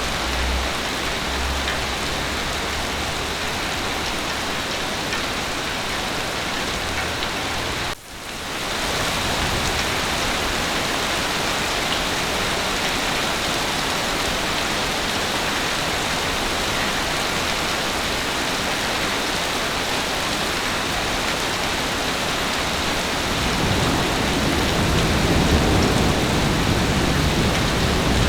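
Steady heavy rain, which briefly cuts out about eight seconds in and fades back up. Near the end a low rumble of thunder builds under the rain.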